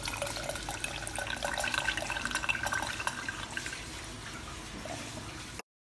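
Lemon juice and warm water poured from a plastic citrus squeezer into a drinking glass, trickling and dripping. The sound cuts off abruptly near the end.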